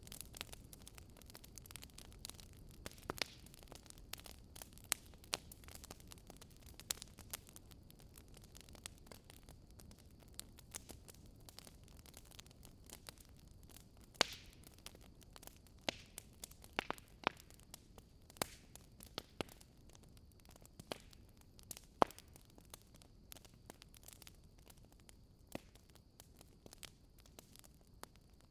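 Wood campfire crackling, with sharp pops and snaps at irregular moments, the loudest about halfway through and again a little later, over a low steady rush of river water.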